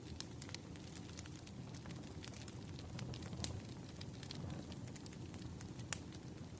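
Wood fire crackling: irregular sharp pops and snaps, one louder pop near the end, over a steady low rushing noise.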